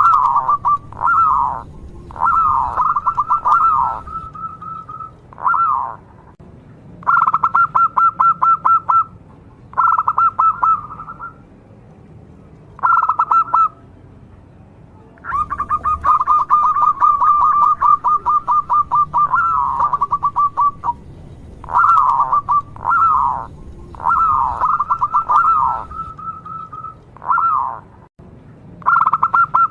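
A local zebra dove (perkutut) singing continuously: phrases of rapid staccato coo notes at a steady pitch, some opening with a few swooping notes, repeated every second or two with short pauses, with one longer unbroken run of rapid notes around the middle.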